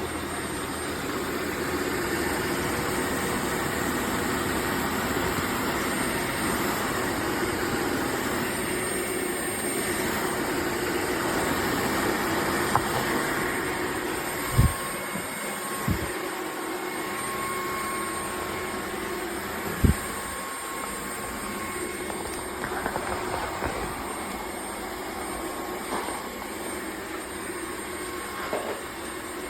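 Dreame H12 Pro wet-dry vacuum mop running steadily, its motor giving a constant rushing noise with a faint whine, broken by a few sharp knocks in the middle.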